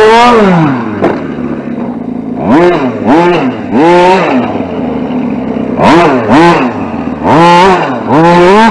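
RC short-course truck's motor revving in short throttle bursts, its pitch rising and falling with each blip. It winds down early on, runs lower for a second or so, then surges again about seven times.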